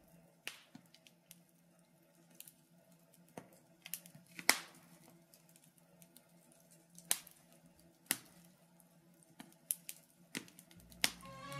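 Wood fire in a fireplace crackling: scattered, irregular sharp pops and snaps over a faint steady background, the loudest pop about four and a half seconds in.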